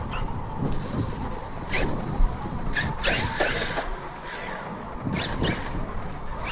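Radio-controlled car running, its electric motor giving short rising and falling whines as the throttle is worked, loudest about three seconds in.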